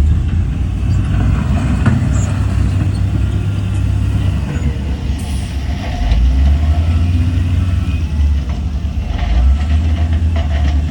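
Heavy diesel engines of earthmoving machinery running steadily under load, a deep drone that swells again about six seconds in.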